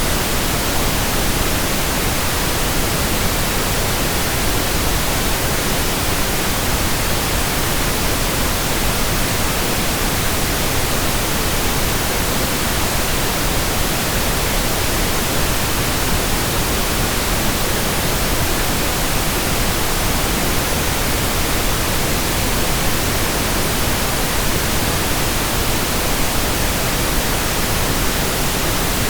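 Synthetic pink noise: a steady, even hiss that never changes.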